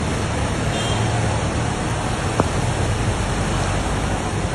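Floodwater rushing in a steady, loud wash, with a single sharp click about two and a half seconds in.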